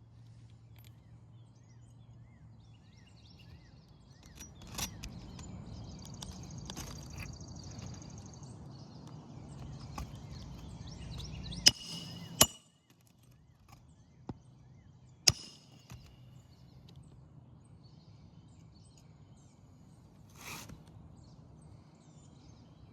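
Nails being driven into asphalt roof shingles: a few sharp knocks, three of them loud, about a second apart and then a few seconds later, with rustling of shingles being handled between them. The new nails go in beside the old holes, which are too big to hold a nail.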